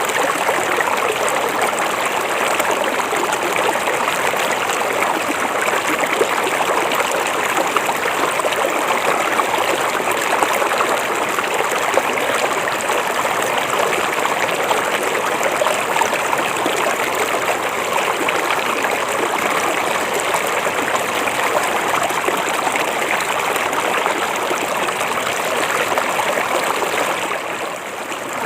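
River water flowing over rocks in a steady, even rush, dipping briefly in loudness near the end.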